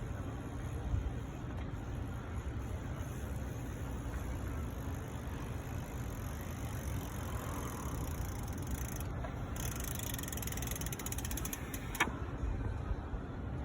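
Steady wind and tyre rumble from a bicycle being ridden, with the rear hub's freewheel ticking rapidly for a couple of seconds while coasting, and a single sharp click near the end.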